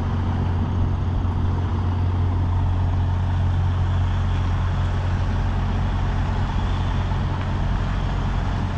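Tractor-trailer's diesel engine running steadily, with an even low hum.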